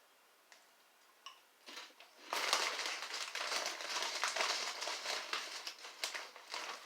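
Plastic snack bag of veggie crisps crinkling as it is handled, starting about two seconds in and going on densely for about four seconds, after a few light clicks.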